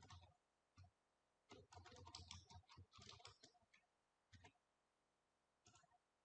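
Faint computer keyboard typing and mouse clicks: a few single clicks, with a quick run of keystrokes from about one and a half to three and a half seconds in.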